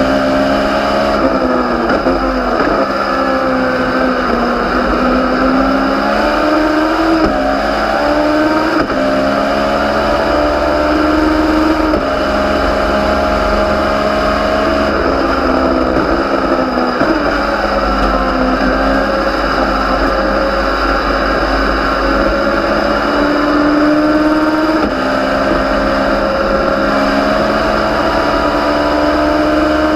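Legends race car's Yamaha motorcycle-derived engine under racing load, its revs climbing and falling through the corners, with a few sudden pitch jumps at gear changes.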